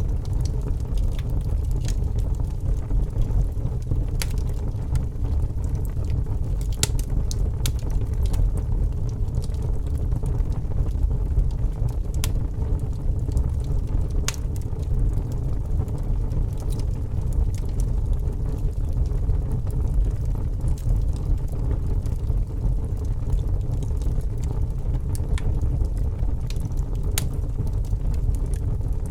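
Campfire burning: a steady low rush of flames with scattered sharp crackles and pops from the wood.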